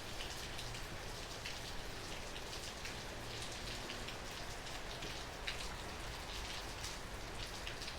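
Steady rain falling, with scattered sharper drops hitting surfaces close by.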